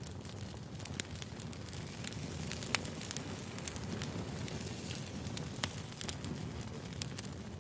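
Firewood burning: a steady low rumble of flames with scattered sharp crackles and pops, a few of them louder.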